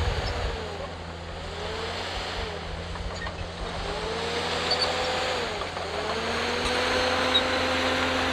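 Komatsu D51PX bulldozer's diesel engine running, its pitch dipping and rising again about three times, then holding steady near the end.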